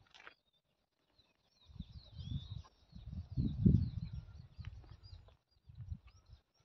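Small birds chirping and twittering, with irregular low rumbles on the microphone that are loudest about three and a half seconds in.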